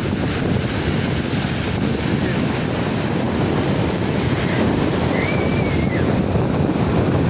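Wind buffeting the microphone outdoors: a loud, steady rumbling noise. About five seconds in, a short chirp rises and falls above it.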